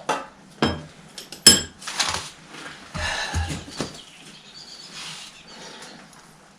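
Heavy metal tractor parts knocking and clinking against each other as a large part is manoeuvred into its housing: a string of sharp clanks, the loudest about a second and a half in, then quieter scraping from about four seconds in.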